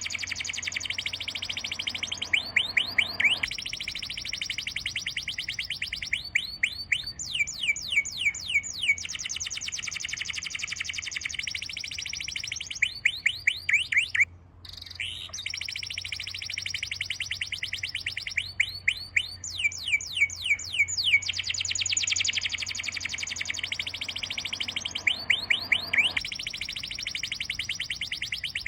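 Bird song: long, fast trills of high chirps, broken by short runs of separate sweeping chirps, repeating in regular phrases. It cuts out briefly about halfway through, then carries on.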